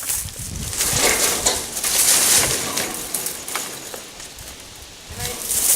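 Junk being dug out of an old dump truck's bed: irregular rustling, scraping and clattering of debris, louder about two seconds in and again near the end.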